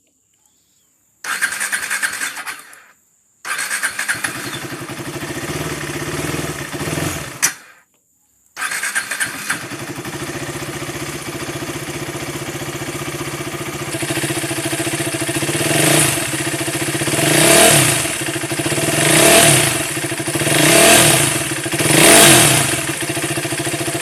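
KTM 390 Duke's single-cylinder engine running after a cold start, broken by two short silences early on, then settling into a steady idle. Near the end the throttle is blipped five times, each rev rising and falling back to idle.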